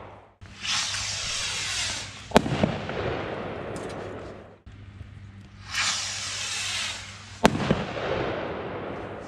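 Consumer fireworks going off twice: each time a hissing whoosh of about a second and a half ends in a sharp bang, followed by a trailing crackle.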